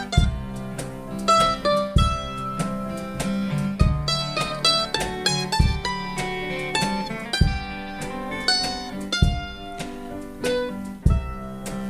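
Live band playing an instrumental break between sung verses: a plucked-string melody of quick notes over a sustained low bass tone, with a deep beat about every two seconds.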